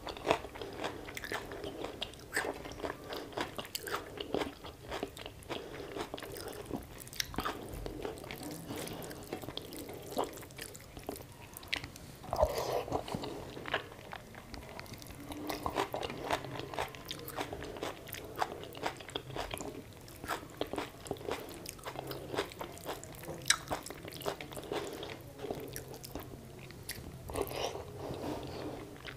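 Close-miked chewing and eating sounds of a person eating rice and mutton curry by hand, a steady run of small clicks from the mouth, with a few denser stretches.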